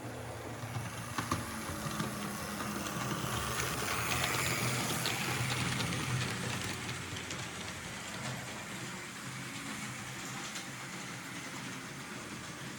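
Märklin H0 model train running along the layout's track: a steady motor-and-wheel rumble that grows louder toward the middle and then eases off, with a few sharp clicks about a second in.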